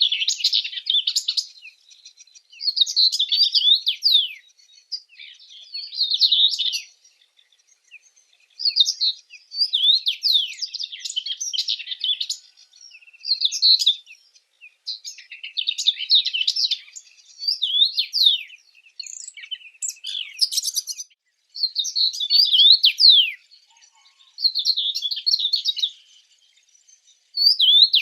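Small birds singing: bursts of quick high chirps, sweeps and trills, each phrase a second or two long, repeating every two to three seconds with short pauses between.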